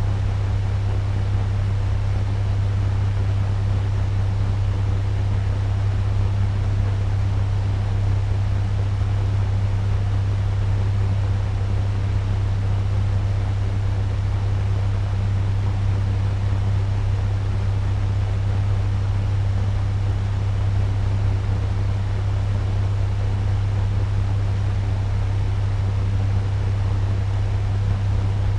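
Turbo fan running at medium speed: a steady whoosh of moving air over a strong low hum, unchanging throughout.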